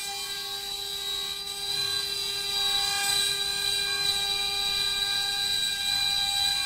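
Spindle of a CNC wood statue-carving machine running with a steady high-pitched whine, growing somewhat louder about two seconds in.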